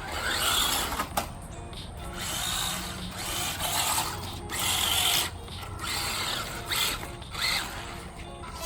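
Electric motor of an RC car whining in about six short bursts of throttle, its tyres spinning without grip on wet ground.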